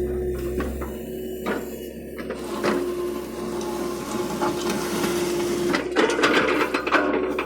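John Deere excavator working, its engine and hydraulics running with a steady hum under scattered clanks and rattles.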